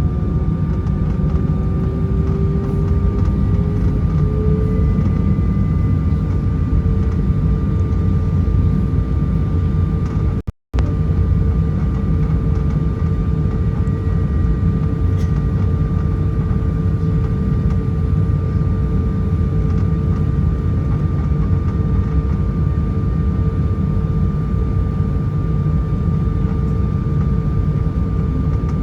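Airbus A320-214 cabin noise from inside the cabin, with the CFM56-5B engines at low power during taxi: a steady low rumble with a steady whine on top, and one tone rising slightly over the first few seconds. The sound drops out completely for a moment about ten and a half seconds in.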